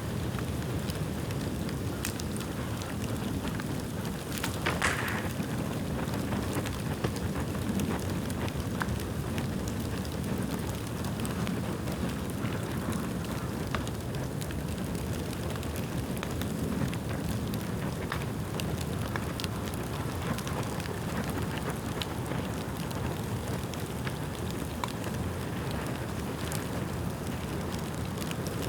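Bonfire of dry dead bamboo burning: a steady low rush of flame with scattered crackles and pops, and a brief hiss about five seconds in.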